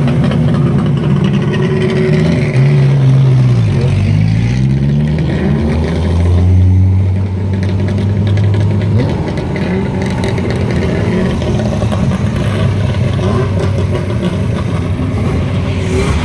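Engines of several historic racing cars, a Lada saloon and a Melkus RS 1000 among them, running at low revs as the cars roll past at walking pace. About four seconds in, one engine's pitch drops and then climbs again.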